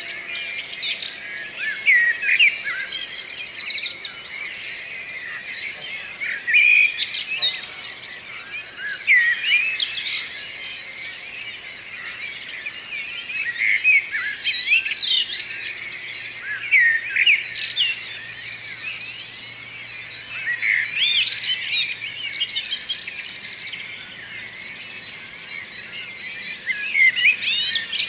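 Morning chorus of several songbirds singing at once: overlapping chirps, trills and quick whistled phrases, with a louder phrase every few seconds over a background of fainter birds.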